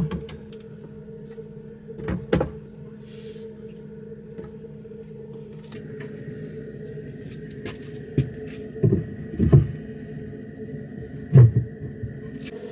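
Scattered knocks and thumps in a small enclosed room over a steady low hum; the loudest knock comes about eleven seconds in.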